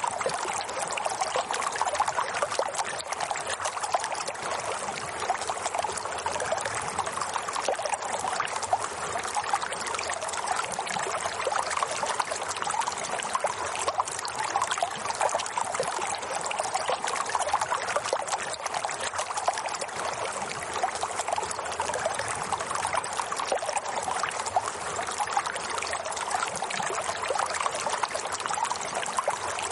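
Running water trickling and splashing steadily, without pause or change.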